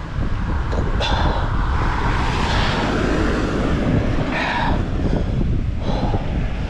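Wind rumbling on a helmet or bike-mounted action camera's microphone, with a car swelling past on the road in the middle.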